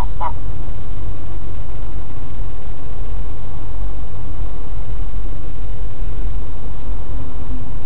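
Car driving at speed on an expressway: a steady, loud, low rumble of road and engine noise.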